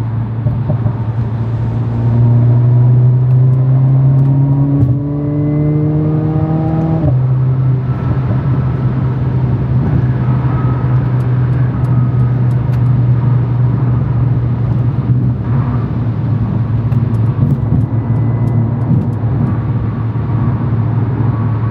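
Mercedes-AMG A45's turbocharged four-cylinder engine pulling under acceleration with its pitch rising. About seven seconds in the pitch drops sharply at a gear upshift, then the car runs on at a steady pitch with tyre and road noise.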